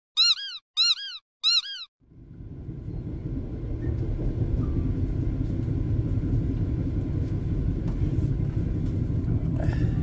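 Three short, high cartoon sound effects, each rising and falling in pitch, in the first two seconds. Then the steady rumble of a Mugunghwa passenger train running, heard from inside the carriage.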